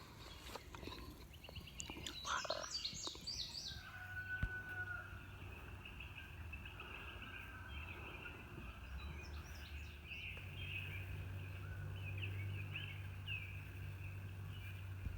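A steady, shrill cicada chorus drones faintly throughout. Bird calls sound about two seconds in, and a low steady hum comes in from about ten seconds in.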